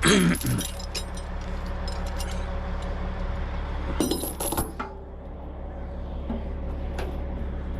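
Steel tie-down chains clinking and jingling as they are handled, in a cluster right at the start and again about four seconds in, over a steady low engine hum.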